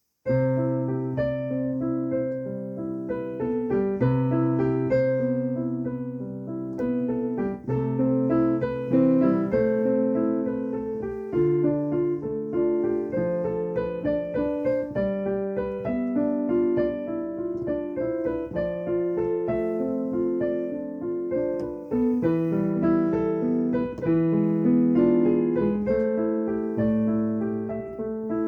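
Improvised solo piano music, played at a moderate pace, with chords in the bass and a melody above.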